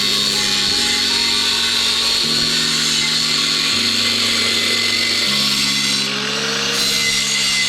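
A power tool running steadily, a continuous harsh cutting or grinding noise, over background hip-hop music with deep bass notes that change every second or so.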